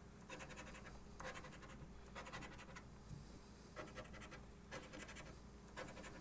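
Scratch-off lottery ticket being scratched: faint, short bursts of scratching at about one a second as the numbers are uncovered.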